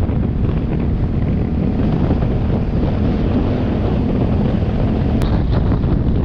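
Wind rushing over the microphone of a riding motorcycle, with the engine running steadily underneath. A brief click about five seconds in.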